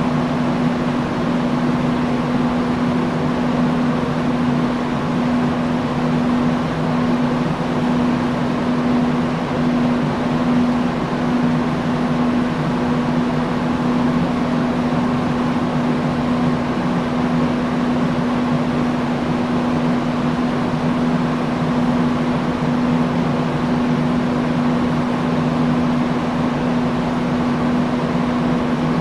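Industrial fan running steadily: an even rush of moving air over a constant motor hum.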